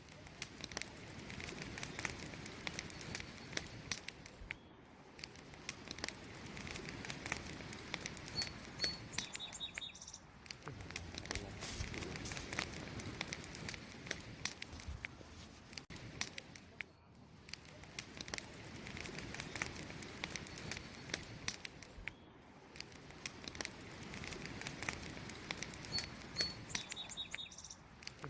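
Wood campfire crackling: a dense, uneven run of small pops and snaps over a steady hiss, swelling and easing every few seconds. A brief high bird chirp sounds twice over it.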